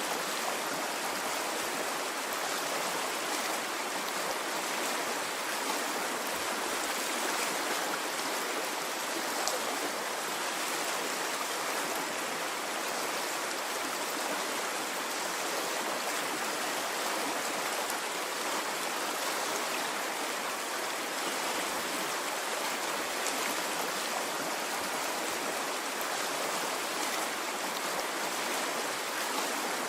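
A water stream flowing in a steady, even rush with no surges or pauses.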